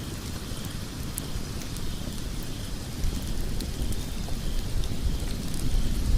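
Wood logs burning in a fireplace: a steady low rumble of flames with scattered small, sharp crackles and pops. The rumble grows louder in the second half.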